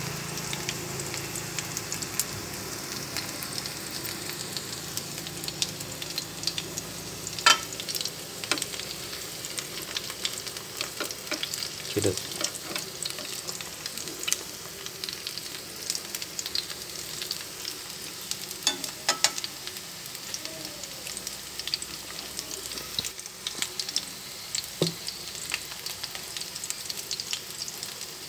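Minced-shrimp and scallion patties sizzling as they shallow-fry in hot fat in a pan, a steady crackle with a few sharp clicks scattered through it.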